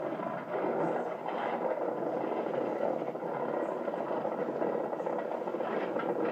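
Steady rumble of skateboard wheels rolling over pavement, with a few faint clicks.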